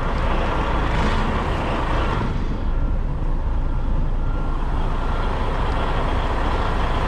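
Semi truck's diesel engine running at low speed during a slow reverse manoeuvre: a steady low rumble, with a brighter hiss on top that fades about two and a half seconds in and comes back near the end.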